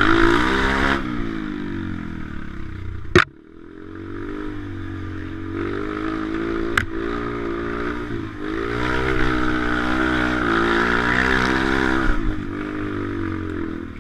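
Pit bike's small single-cylinder engine revving up and down as it is ridden, easing off about a second in and building again twice, with two sharp knocks about three and seven seconds in.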